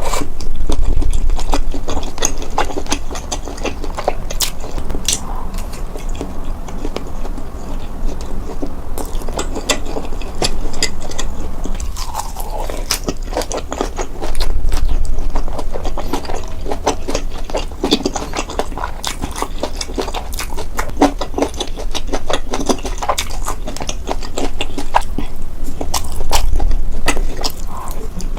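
Close-miked chewing and biting of food, a dense run of small wet clicks and smacks, with a few louder low thumps about a second in, midway and near the end.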